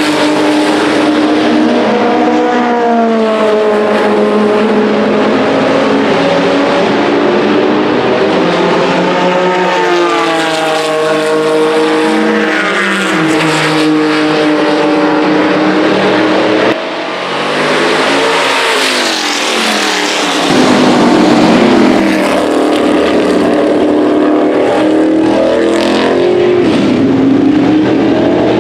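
Vintage race car engines at racing speed, revving up and dropping in pitch again and again through gear changes and past the microphone. The sound cuts off abruptly about two-thirds of the way through, and another race car is heard revving from a few seconds later.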